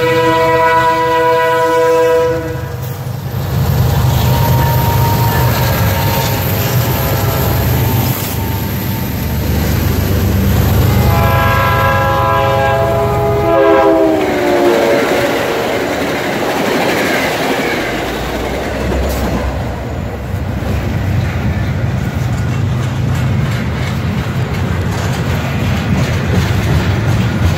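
A diesel freight locomotive's horn blows a multi-note chord at the grade crossing for the first couple of seconds, then gives way to engine and wheel rumble. About eleven seconds in, a second train horn sounds and drops in pitch as a commuter train passes close by. The rest is the steady rumble and rapid clatter of double-stack container cars rolling past.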